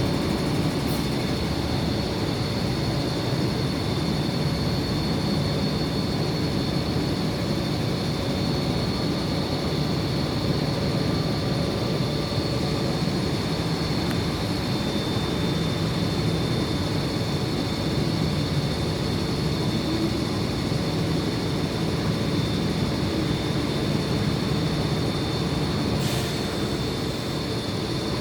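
An MTR C-train electric multiple unit on the Kwun Tong Line makes a steady train noise. A low rumble runs under a constant high whine that holds its pitch without rising or falling.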